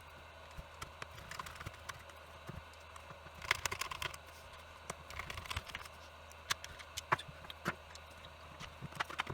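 Drill parts and screws being handled and fitted during reassembly: scattered light clicks and knocks, with a quick cluster of them about three and a half seconds in.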